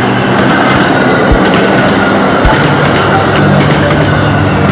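MBTA commuter rail train passing close by at a grade crossing: a steady rolling rumble of bilevel coaches, with a few sharp wheel clacks over the rail joints and a faint thin wheel squeal.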